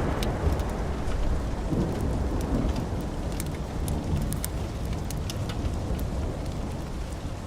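Wood fire burning in a fireplace: a steady low roar of flames with scattered sharp crackles and pops, several a second.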